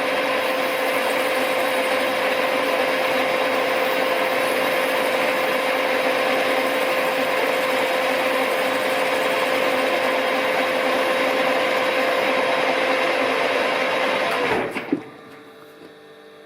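Smart & Brown Model A lathe running as a parting blade cuts through brass bar: a steady machining whine with a constant tone. About fourteen seconds in the lathe winds down, its tone falling away, leaving a faint mains hum.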